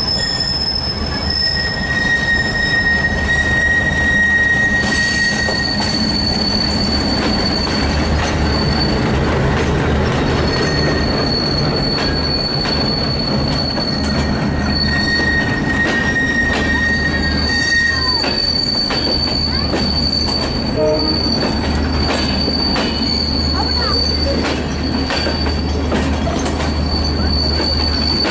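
Bangladesh Railway intercity express of LHB passenger coaches rolling past close by on a curve. The wheel flanges squeal in several high, steady tones that come and go, over a continuous low rumble and the clack of wheels over rail joints.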